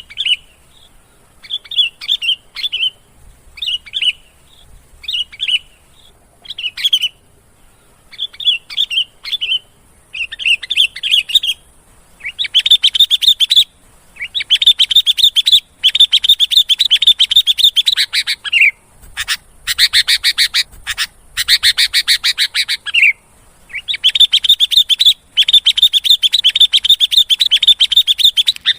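Sooty-headed bulbul (kutilang) calling: short chirping phrases with pauses, then from about halfway in, long runs of fast chattering notes.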